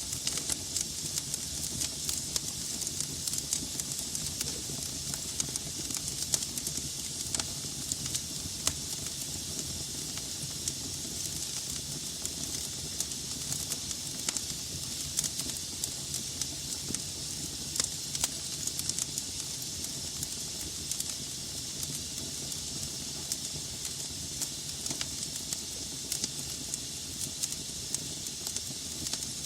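Wood logs burning in a fireplace: a steady hiss with frequent sharp crackles and pops scattered irregularly throughout.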